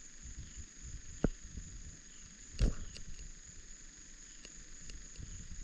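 Crickets trilling steadily, a high unbroken tone, over a low uneven rumble, with two sharp knocks, about a second and then close to three seconds in.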